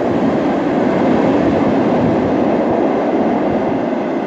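Freight train of tank wagons rolling away along the track, a steady rumble of wheels on rails that slowly fades near the end.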